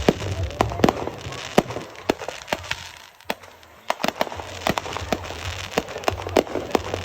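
Fireworks going off: many sharp, irregular bangs and pops in quick succession, with a brief lull about three seconds in.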